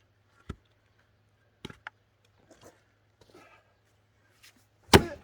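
Axe chopping firewood: a knock about half a second in, two quicker knocks near two seconds, then a loud split near the end, followed by a few small clatters of wood.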